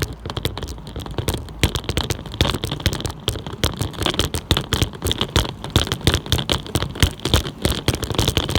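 Rapid, irregular clicking and crackling rattle from a bicycle ridden over rough ground, picked up through the phone holder mounted on the bike.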